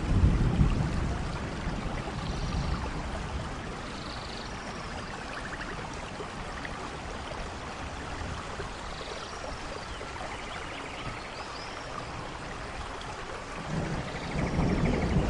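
Steady rain falling in a rainforest, with a low rumble of thunder in the first second and another building near the end. Small chirps and trills of animals come through the rain now and then.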